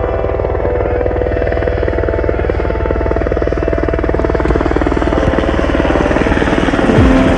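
Military helicopter rotors beating in a fast, steady chop that grows gradually louder.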